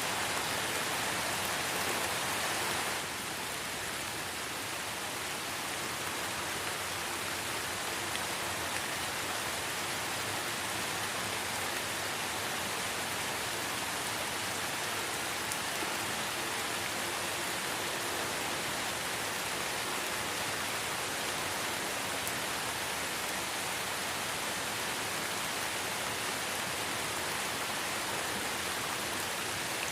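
Light rain falling in a forest: a steady, even hiss of many drops, which drops slightly in level about three seconds in.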